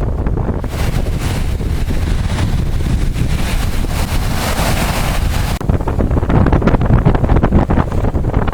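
Strong wind buffeting the microphone with a heavy low rumble, over surf from a rough sea. From about a second in, a broad hiss of breaking waves rises over it, then cuts off suddenly about halfway through.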